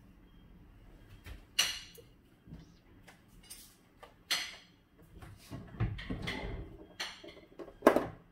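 Household clatter: about four sharp knocks of things being handled or set down, the loudest near the end, with scuffing and rustling between them.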